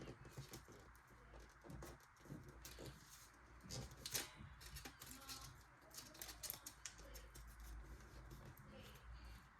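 Faint rustling and crackling of origami paper being folded and creased, in short irregular crinkles, one a little louder about four seconds in.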